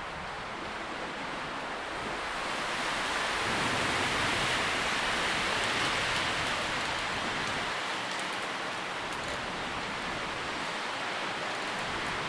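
Wind rustling through tree leaves, a soft hiss that swells in a gust a few seconds in and then eases slightly, with a few faint leaf ticks.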